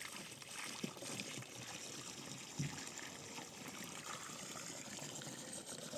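Water trickling steadily, with a couple of short knocks, one about a second in and a louder one midway.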